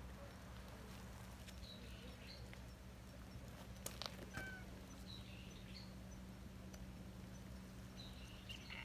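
Faint, short bird chirps at intervals over quiet outdoor background with a steady low hum. A couple of soft clicks come about four seconds in.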